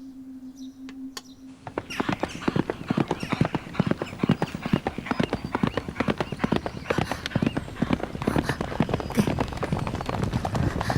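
A faint steady low hum. About two seconds in, a dense, rapid clatter of horses' hooves begins: several horses galloping.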